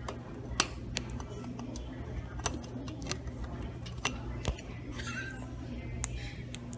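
Scattered light clicks and taps at irregular intervals, roughly one a second, over a steady low hum.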